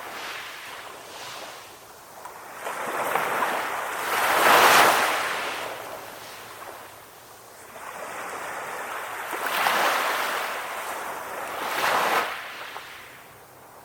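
Calm ocean waves breaking and washing in, coming in slow surges that swell and fade every few seconds. The loudest surge comes about five seconds in, with others around ten and twelve seconds.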